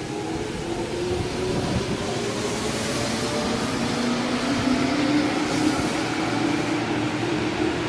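Tobu Tojo Line electric commuter train running. Its motor hum rises slowly in pitch as it gains speed, over a steady rumble, and grows gradually louder.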